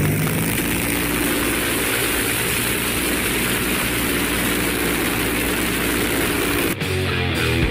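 TMC Dumont motorcycle's six-cylinder aircraft engine running steadily, a loud, even engine noise with hiss. It cuts off abruptly near the end.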